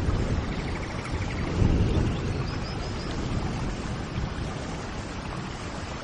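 Steady rainfall hiss, with a low rumble swelling about a second and a half in. A bird gives a few short high chirps around the middle.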